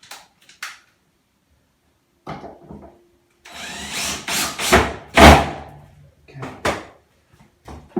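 Wooden skirting board being tried in place against the wall: a run of knocks and scraping wood-on-wood handling. A louder stretch of scraping comes in the middle, ending in a heavy knock about five seconds in.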